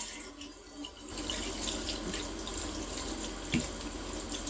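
Water from a tap starts running about a second in, then pours steadily into a sink.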